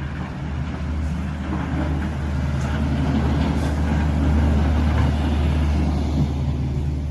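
A heavy vehicle's engine rumbling steadily, growing louder to a peak about halfway through, then easing off slightly.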